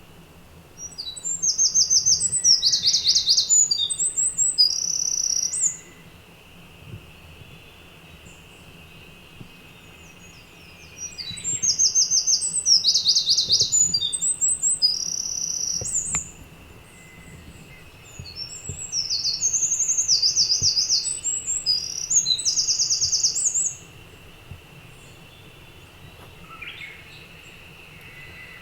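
A songbird singing three long, loud song phrases of about five seconds each, made of rapid high trills and notes, with pauses of about five seconds between them; another phrase starts near the end. A faint steady high hum runs underneath.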